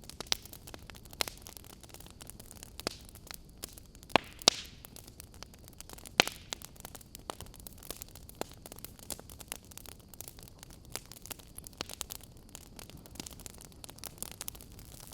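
Wood fire crackling in a fireplace: irregular sharp pops and snaps over a soft steady hiss, with a few louder pops around four and six seconds in.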